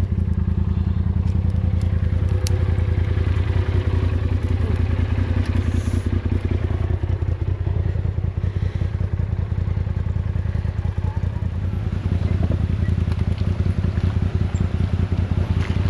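Off-road vehicle engine running steadily with a low, even rumble and no revving.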